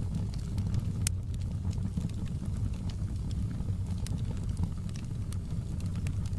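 Wood fire crackling in a fireplace: a steady low roar of flames with scattered sharp pops and snaps, the loudest about a second in.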